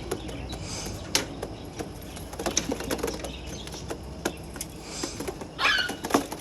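Young pigeons being caught and handled in a loft: scattered clicks, knocks and scuffs of feet, wings and woodwork, with short rustles and a brief rasping flutter near the end.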